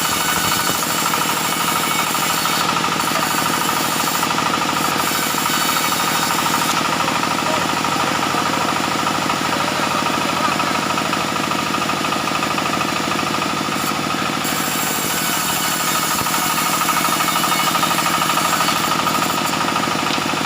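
Sawmill machinery running steadily, a loud, even mechanical drone with a fast regular pulsing.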